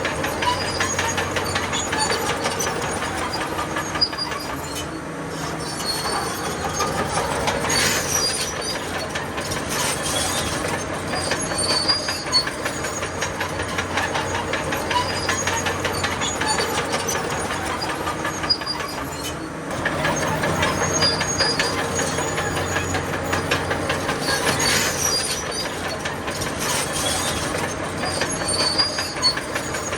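Crawler bulldozer working: its diesel engine runs steadily under a dense clatter of steel tracks, with short high squeals from the track links. The noise eases a little around five seconds in and swells again about twenty seconds in.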